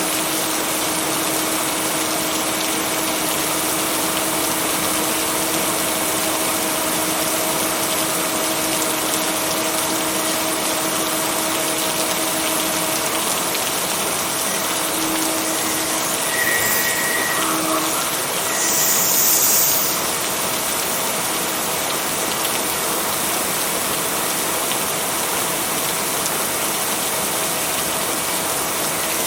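Steady heavy rain, a dense even hiss, with a faint steady low hum under it. A little past halfway a short high tone sounds, followed by a brief louder swell of hiss.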